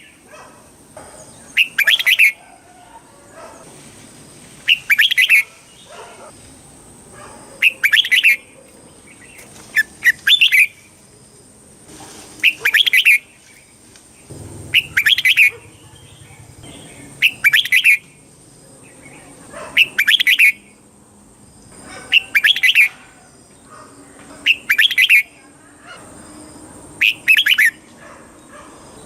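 Red-whiskered bulbul singing short, loud, repeated song phrases, one about every two and a half seconds.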